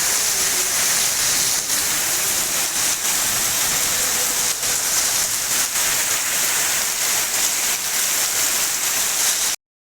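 Heavy rain with hail pelting down in a steady loud hiss, with scattered sharper hits of hailstones; it cuts off abruptly near the end.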